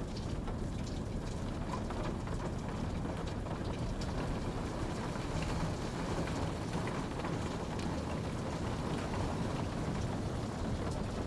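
Steady rain falling, a constant hiss with many small scattered drop patters on surfaces.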